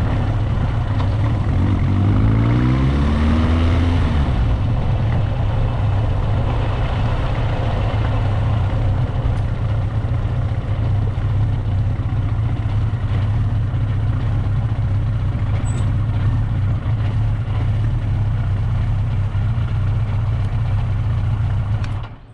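Motorcycle engine running steadily with a low hum, recorded from an onboard action camera. There is a brief rise in pitch about two to four seconds in. The sound cuts off sharply near the end.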